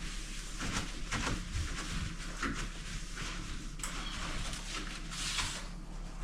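A cloth wiping the front of a microwave: a run of uneven rubbing strokes, with one longer stroke near the end.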